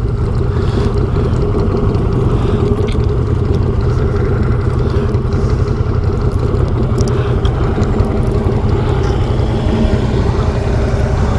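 ATV engine running at a steady speed while riding along the trail, an even drone with a few faint clicks and rattles.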